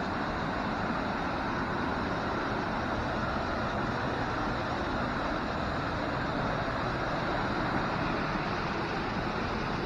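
Waterfall: falling water rushing in a steady, unbroken hiss that stays level throughout.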